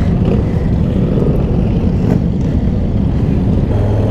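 Motorcycle engines running, a loud, steady low rumble, with a steadier low hum setting in near the end.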